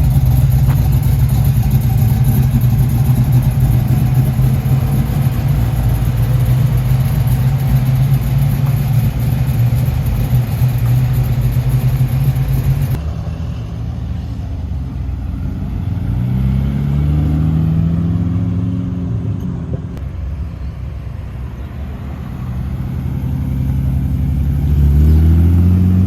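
A car engine running with a loud, steady, deep idle. After a sudden change, a car engine revs, its note rising and falling, then rising again near the end.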